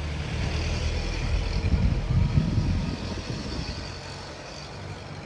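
A road vehicle passing: a low engine rumble that builds to its loudest about two seconds in, then fades away.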